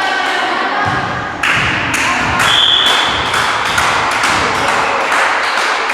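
A run of sharp thuds and knocks, about two or three a second, echoing in a large hall over background music and faint chatter. A brief high squeak-like tone comes about two and a half seconds in.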